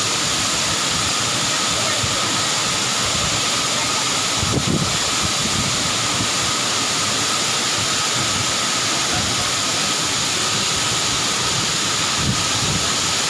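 Waterfall rushing: a loud, steady wash of falling water, with two brief low thumps, one about four and a half seconds in and one near the end.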